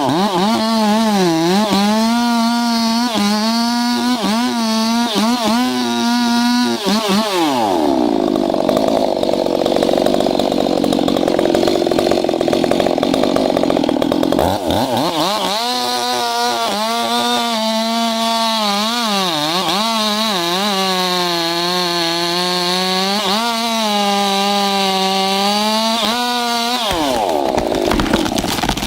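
Two-stroke chainsaw running at full throttle through wood, its pitch sagging and recovering as the chain bites. About seven seconds in the revs fall away. About fifteen seconds in it revs back up and cuts again until the revs drop off near the end.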